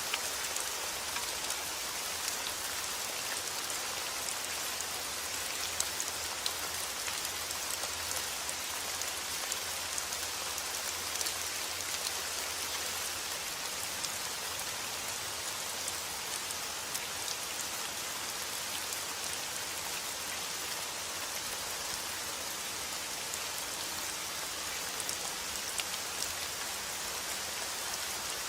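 Steady rain falling: an even hiss with scattered louder single drops ticking through it.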